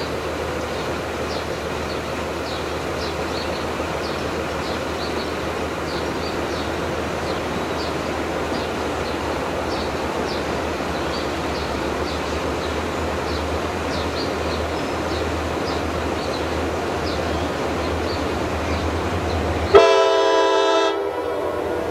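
A train running with a steady rumble and a light, regular clicking. About 20 seconds in, a train horn sounds one loud blast of about a second, the loudest moment.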